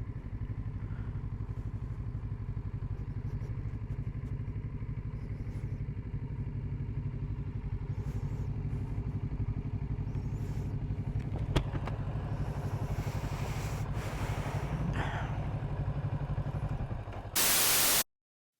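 Kawasaki Z650RS parallel-twin engine running steadily while riding, with a low pulsing exhaust note. Near the end a short burst of loud hiss cuts the sound off abruptly.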